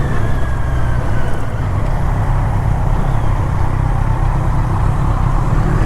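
Motorcycle engine running steadily while riding, mixed with wind and road noise on the rider's microphone.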